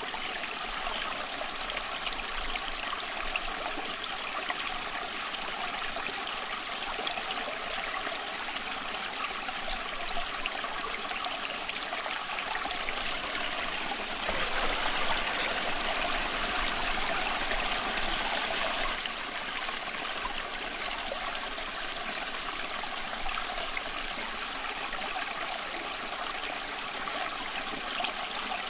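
Creek water flowing and trickling steadily, growing louder for about five seconds past the middle.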